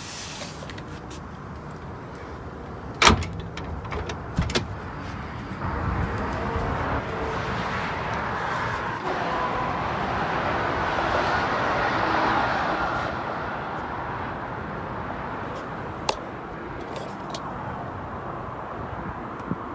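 Two sharp knocks, about three and four and a half seconds in, the first the loudest sound here, then a rushing noise that swells for several seconds and slowly fades, with a few light clicks near the end.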